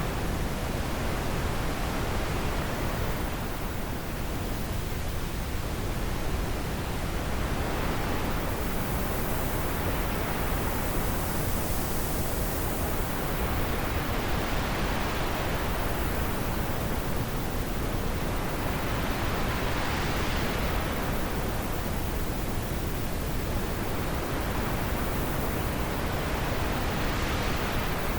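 Wind blowing as a steady rushing noise that swells and eases in slow gusts every several seconds.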